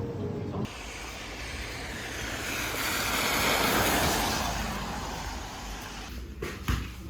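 A rushing noise with no pitch that builds for about three seconds and then fades away, followed by a few short clicks near the end.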